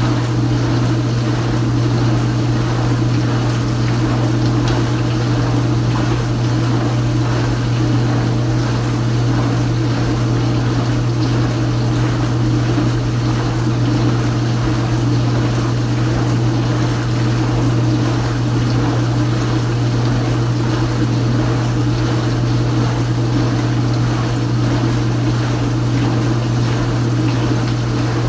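Kenmore Ultra Wash 3 dishwasher's wash pump running steadily, with a low motor hum and water spraying and splashing inside the tub.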